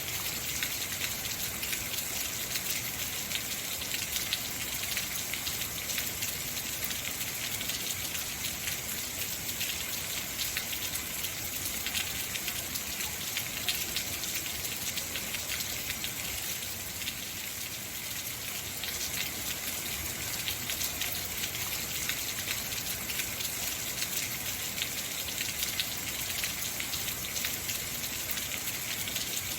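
Heavy rain falling steadily, a dense hiss of many fine drop patters with no thunder.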